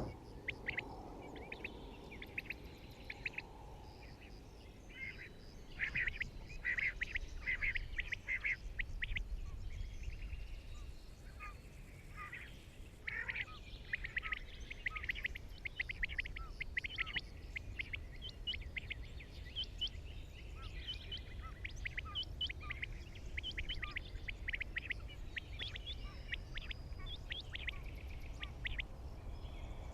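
Birds calling outdoors: many short, repeated chirps over a steady low rumble.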